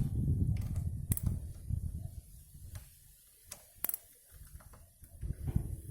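Hand tools being handled at a bicycle's handlebar stem: a low rumble of handling for the first two seconds, then scattered separate metallic clicks and knocks as a tool is fitted to the stem bolt.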